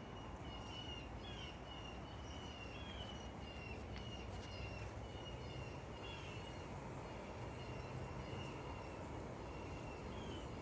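A bird calling over and over, a short clear whistled note about twice a second, some notes rising at the end, over a steady low background rumble.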